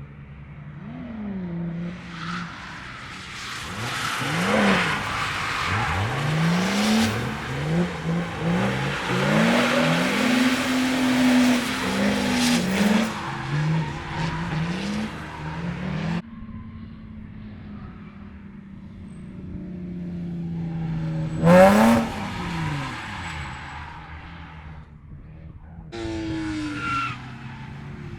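Drift cars on track: an engine revved hard in repeated rises and falls while the tyres squeal through the middle stretch, cutting off abruptly. Later a car passes close by about three-quarters of the way through, its pitch dropping as it goes, and another passes near the end.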